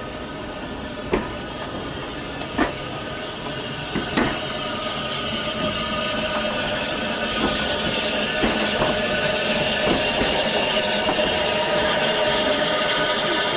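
Steam-hauled train rolling past, its wheels clacking over rail joints every second or so. After about six seconds a steady hiss with a faint whine takes over and slowly grows louder.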